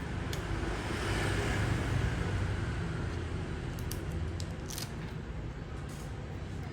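Steady traffic rumble that swells for a couple of seconds as a vehicle passes, with a few light clicks.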